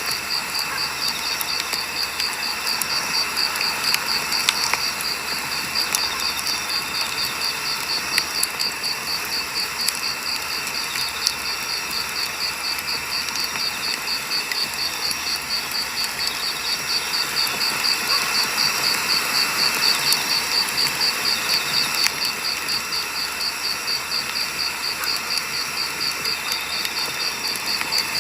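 Firewood burning in a campfire, crackling with scattered sharp pops over a steady hiss. A high, evenly pulsing chirp, like crickets, runs alongside.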